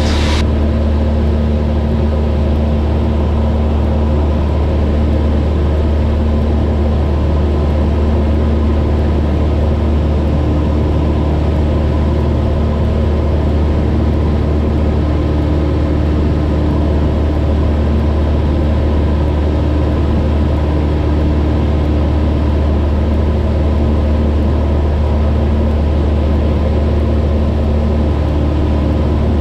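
Cessna 172 in flight: steady engine and propeller drone heard from inside the cabin, with an unchanging low hum and a few steady higher tones.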